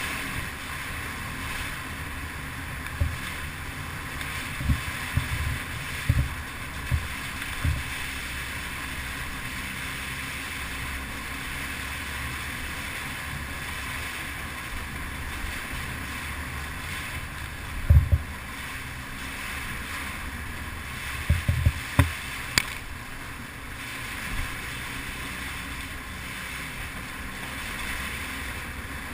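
Yamaha TT-R250 dirt bike riding along, its single-cylinder four-stroke engine and wind noise making a steady rush, with short low thumps from bumps in the track: a few between about 3 and 8 seconds, a loud one about 18 seconds in, and a cluster near 22 seconds.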